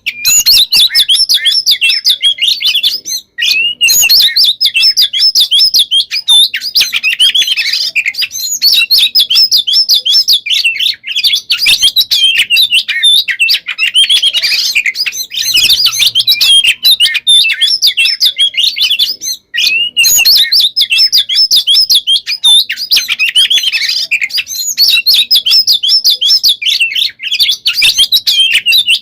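Oriental magpie-robin (kacer) singing a fast, almost unbroken song of sharp whistled notes and rolling trills, with only two momentary breaks. This is the nonstop 'gacor konslet' style that kacer keepers prize.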